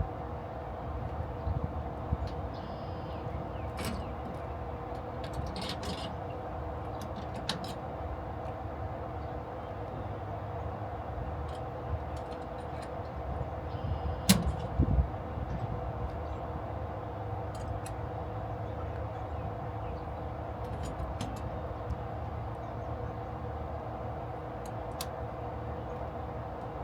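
A steady mechanical hum, with scattered light clicks and one louder knock about halfway through.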